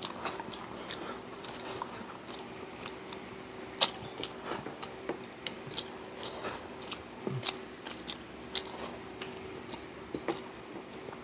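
Close-up eating sounds: chewing and biting food, with many small irregular clicks and smacks, the sharpest about four seconds in, over a faint steady hum.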